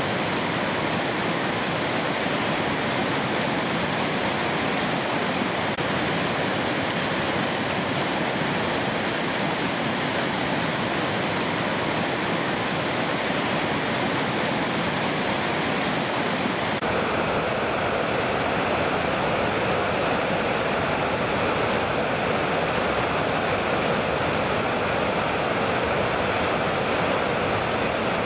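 Mountain river rushing steadily over rocks. About two-thirds of the way through, the sound changes abruptly to a deeper, fuller rush with less hiss.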